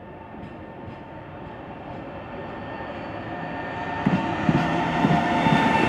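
A train approaching on the track, growing steadily louder, with a steady high tone over the running rumble and a few low knocks in the last two seconds.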